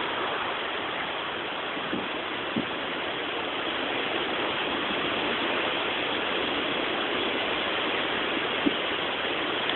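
Steady rushing noise of strong storm wind, with a few faint clicks.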